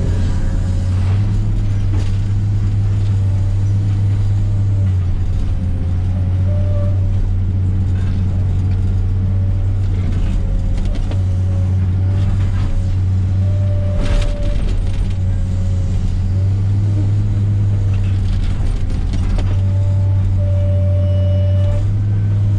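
Komatsu PC300 excavator's diesel engine running steadily under working load, its note swelling and easing, with a hydraulic whine that comes and goes. A few sharp knocks sound as the machine handles brush.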